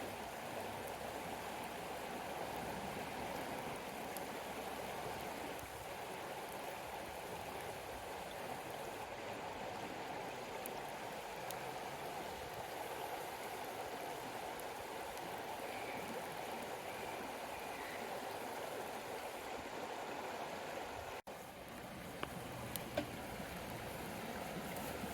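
Steady rushing of a flowing river, with a brief break about 21 seconds in and a few faint clicks after it.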